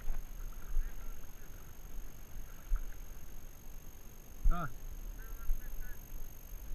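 A bird's single short call with a rising-then-falling pitch, about two-thirds of the way through, followed by a few faint, higher, shorter calls. All of it sits over a low rumble of wind and water.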